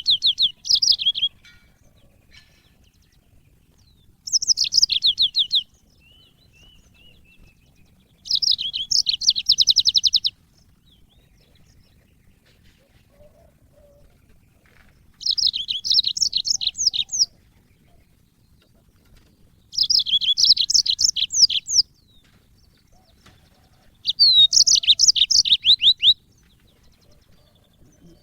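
Yellow-fronted canary (Mozambique canary) singing in short, fast, high trilled phrases. Six phrases, each about one and a half to two seconds long, come roughly every four seconds, with pauses between them.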